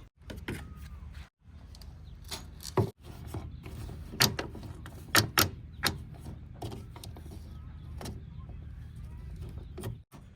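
Irregular sharp metallic clicks and knocks, about a dozen, over a low steady rumble.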